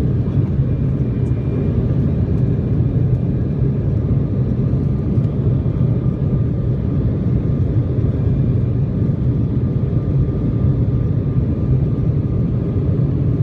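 Airliner cabin noise heard from inside the plane: a steady, loud low rumble of jet engines and airflow that holds even throughout.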